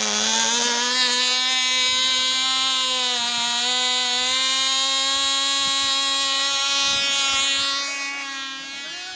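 Cox .049 Black Widow two-stroke glow engine on a control-line model airplane running steadily with a high-pitched buzz, its pitch wavering slightly; it gets quieter about eight seconds in.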